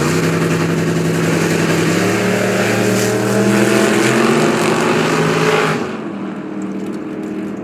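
Two bracket drag race cars, one a 1963 Chevy II, launching side by side at full throttle and pulling hard down the track, the engine pitch climbing in steps. The sound drops off sharply about six seconds in as the cars get far down the track.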